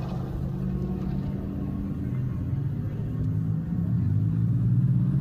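Metrolink commuter train going by: a low rumble with a steady engine drone, getting louder about four seconds in.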